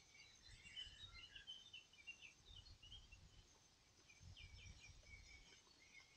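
Faint woodland birdsong: scattered short chirps and calls from several small birds, with soft low rumbles about a second in and again a little past the middle.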